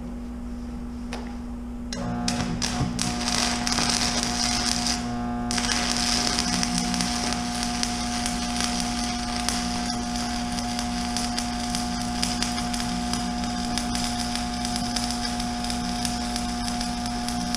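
Stick welding with a 7018 electrode: the arc strikes about two seconds in and then crackles and sizzles steadily, over a steady hum.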